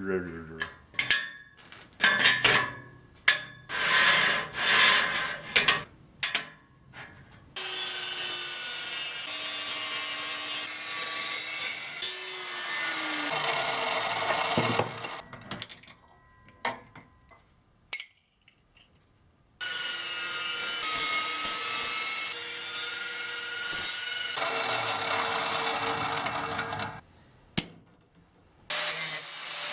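Power tool, most likely an angle grinder, running on steel in two long stretches; its motor note dips under load partway through the first. Sharp metal clanks of steel parts being handled come before, between and after.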